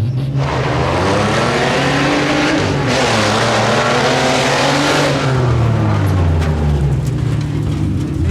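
Modified 4x4 tuff truck's engine revving hard under full throttle on a dirt obstacle course, its pitch climbing and dropping back twice in the first five seconds, then holding high, over a steady hiss of tyres and dirt.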